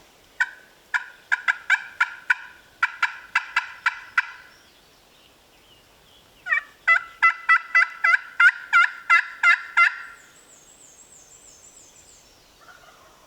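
Two loud runs of rapid, sharp turkey yelps and cutts, about three to four notes a second, from a hunter's turkey call sounded to strike a gobbler into answering. A faint high bird twitter follows near the end.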